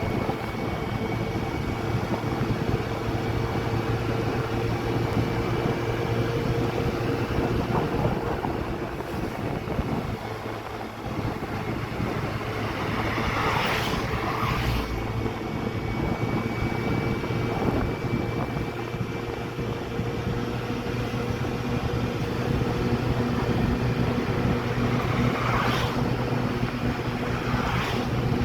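Motorcycle engine running at a steady cruise with wind and road noise, the pitch holding nearly level throughout. Brief whooshes come through around the middle and again near the end.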